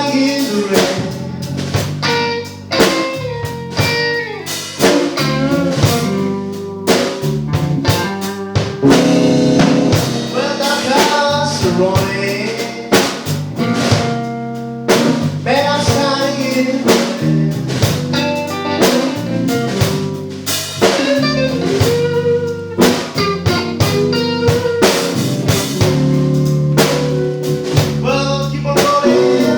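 A live band playing a slow blues: an electric guitar lead with bent notes over a drum kit and bass.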